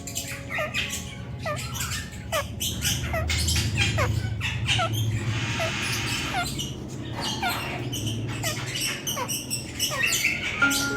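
Ringneck parakeet giving a long series of short, falling chirps, about one or two a second, with many sharp clicks between them.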